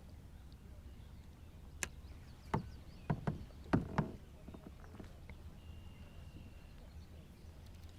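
A handful of sharp knocks and taps on a kayak, about six in two seconds, over a low steady hum.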